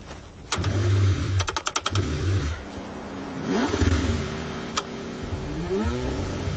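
Cold car engine being cranked repeatedly and struggling to start, with short bursts of rumble, a quick run of clattering strokes and brief rising whines.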